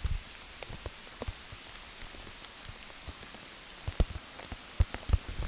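Steady hiss of hard hurricane rain, with scattered sharp taps of drops hitting the plastic wrap over the camera; a few taps, one about four seconds in, are much louder than the rest.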